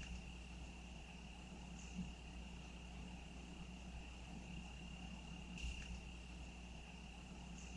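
Faint, steady insect trill on one high note, cricket-like, over a low hum, with a soft click about two seconds in and another a little over halfway.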